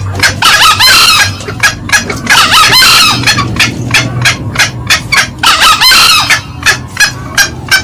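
Green junglefowl calling: a steady run of short, sharp cackling clucks, about three a second, broken three times by a longer, harsher crowing call, about a second in, around three seconds and near six seconds.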